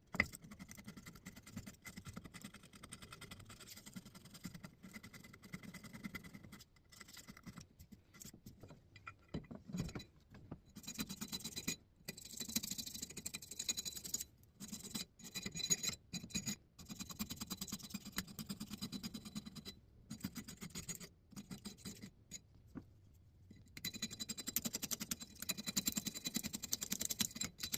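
Paint being scrubbed and scraped off a steel axe head, in a run of bursts a few seconds long with short pauses between them.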